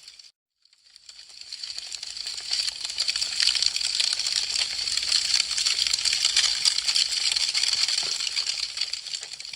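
Wood fire crackling, a dense run of quick pops and snaps. It drops out briefly just after the start and fades back in over a second or two.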